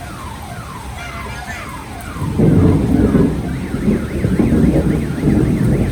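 An electronic siren or alarm sounds a run of quick falling chirps, about two a second, then switches to a fast up-and-down warble. A loud rumble comes in about two seconds in and carries on under the warble.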